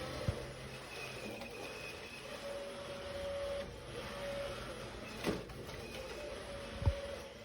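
Small motor whirring steadily, with three short knocks, the last the loudest.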